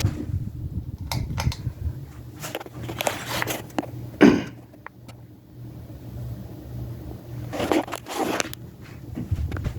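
Hunter Reverse-Aire ceiling fan running with a low, steady hum, overlaid by close-up scraping and crackling noises, the loudest about four seconds in and another cluster near eight seconds.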